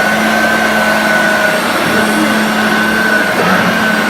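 Hoover Concept One upright vacuum cleaner running steadily, its motor giving a constant high whine over a lower hum. Its power-drive clutch runs without grinding.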